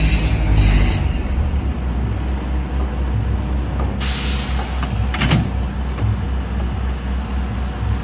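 Heavy diesel truck engine running steadily, louder for the first second, with a short burst of air hiss from the air brakes about four seconds in and a sharp knock soon after.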